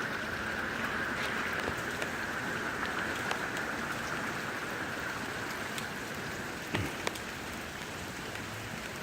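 Steady rain falling, with scattered individual drops ticking, and a brief knock about seven seconds in.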